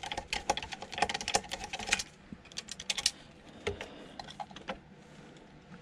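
Rapid small clicks and taps of hand tools working screws out of a metal casing, dense for about two seconds, then only scattered clicks.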